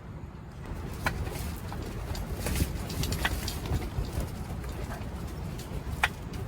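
Strong wind buffeting the microphone as a steady low rumble, with a few sharp clicks or taps through it, the loudest near the end.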